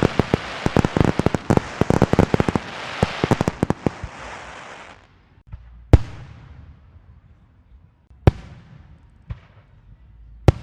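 A rapid string of firecrackers goes off: dense popping over a crackling hiss that cuts off about halfway through. Then come four separate fireworks bangs, a second or two apart, the third one weaker.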